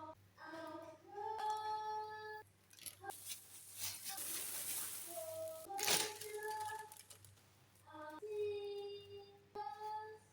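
A high voice singing held notes in short phrases, with a rising hiss in the middle and a sharp knock about six seconds in.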